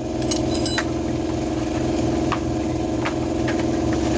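An engine running at a steady idle, an even low pulsing with a hum over it, with a few light clicks and taps on top.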